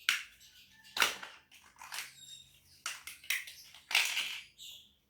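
Plastic Lego bricks clattering and clicking as they are handled, in short sharp bursts about once a second.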